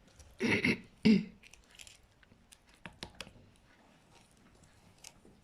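A woman's short wordless murmur, in two brief bursts about half a second and a second in, followed by a few faint, light clicks.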